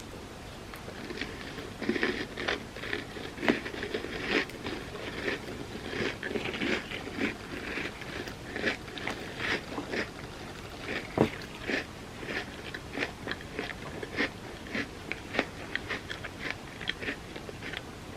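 Close-miked chewing and crunching of a Biscoff cookie sundae: irregular crisp crackles and mouth clicks. They start about two seconds in and carry on steadily.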